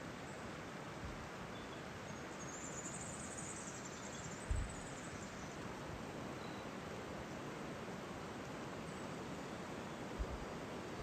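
Steady rush of a flowing mountain river. A high, buzzy trill from an insect or bird runs for about two seconds near the start. Two short low thumps come about halfway and near the end, the first the loudest.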